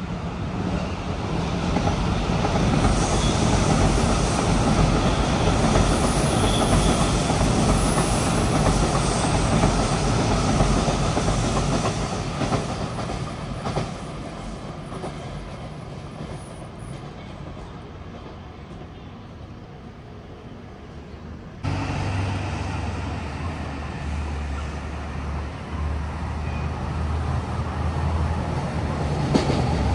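A train passing on the rails through a station: a loud rumble of wheels on track over the first dozen seconds that slowly fades as it moves away. About two-thirds of the way through, the sound cuts suddenly to another train close by, running with a steady low hum.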